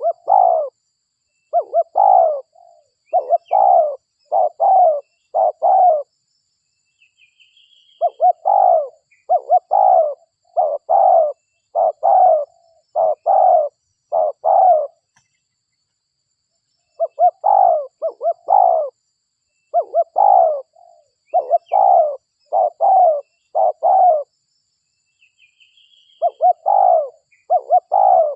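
Spotted dove (derkuku) cooing in runs of six to nine short coos, a little more than one a second, with pauses of about two seconds between runs. A few brief, higher chirps and a short trill from another bird come in between.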